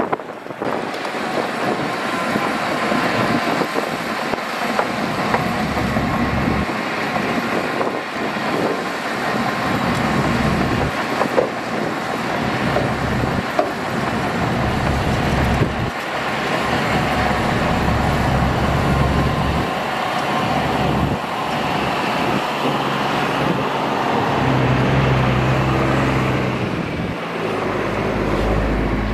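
Heavy diesel construction machinery engine running steadily under varying load. The engine note shifts in pitch in the last few seconds.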